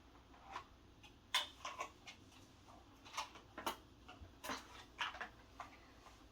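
Irregular plastic clicks and taps from a Roomba's parts being handled and turned over, about a dozen in all, the sharpest about a second and a half in and just under four seconds in.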